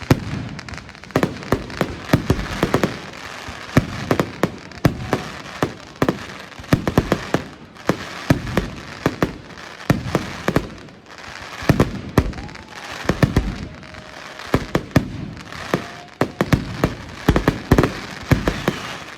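Professional fireworks display finale: a rapid, irregular barrage of shell bursts and crackling reports, many bangs a second, with occasional faint whistles.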